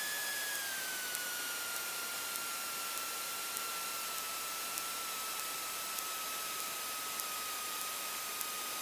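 Cessna light aircraft cabin noise heard through the intercom during the landing flare: a steady hiss with a thin high whistle that slowly falls in pitch, like the stall warning horn sounding just before touchdown.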